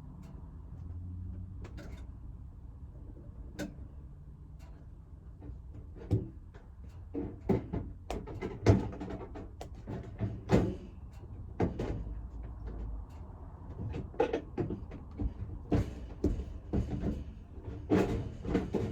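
Irregular knocks and clunks, like objects being handled and set down, coming thicker from about a third of the way in, over a low steady hum.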